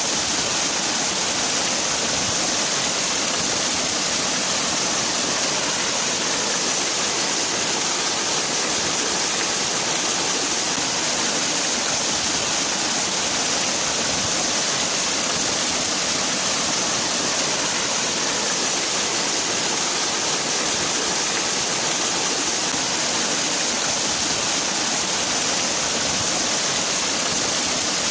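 Waterfall: water falling and splashing in a steady rush with a bright hiss, unchanging throughout.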